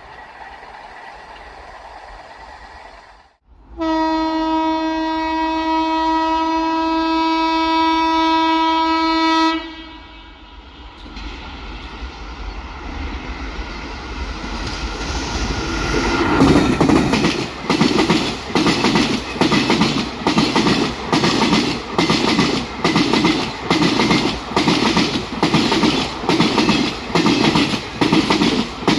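An electric locomotive's horn sounds one long, steady blast of about six seconds. Then the train's rumble builds into a loud, rhythmic clickety-clack as the coaches pass at speed, their wheels beating over the rail joints about once a second.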